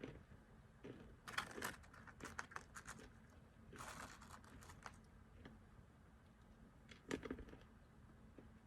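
Faint computer keyboard typing in several short bursts of keystrokes with pauses between them.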